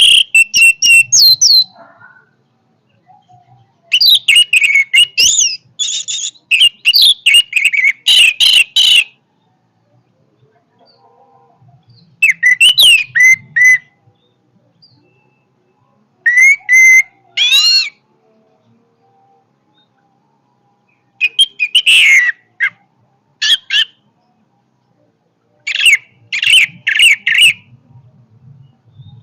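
Orange-headed thrush (anis merah) singing loud phrases of varied whistles and rapid trills, about six bursts separated by pauses of a few seconds.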